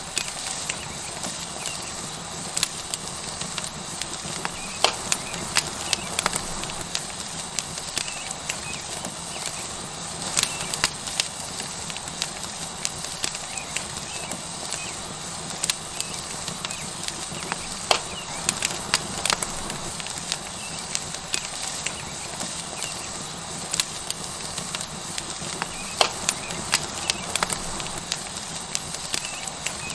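Tomahawk steak sizzling on a hot rock over a wood fire: a steady hiss with frequent sharp crackles and pops from the burning wood.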